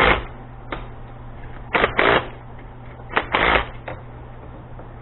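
A few short bursts of rattling and scraping as metal parts and wire cable are handled, loudest around two and three and a half seconds in, over a steady low hum.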